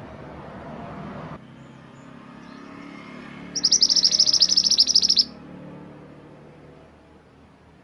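Mantenan gunung songbird singing one loud, fast trill of rapidly repeated high chirps lasting under two seconds, midway through. Before it, a low rumbling background noise cuts off abruptly after about a second and a half.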